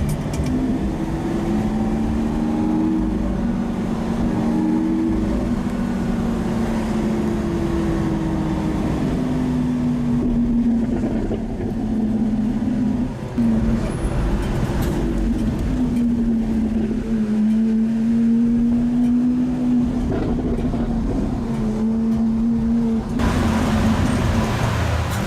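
Lamborghini Aventador SV's V12 engine heard on board while driving, its note holding fairly steady with small rises and falls in revs. A louder rush of noise comes in near the end.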